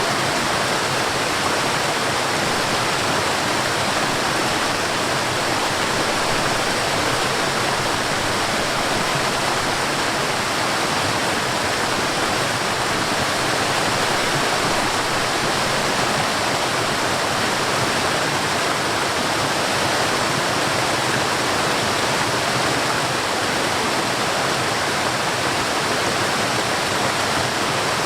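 Forest waterfall: water falling and rushing in a steady, unbroken roar of noise.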